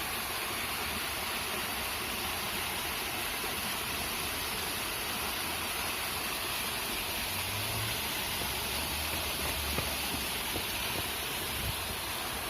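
Mountain stream of spring water flowing, a steady rushing hiss, with a few low thumps in the second half.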